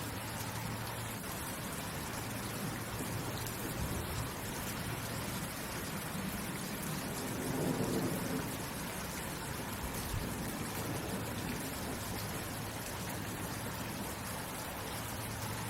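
Steady rain falling, an even hiss, with a low rumble that swells and fades about halfway through.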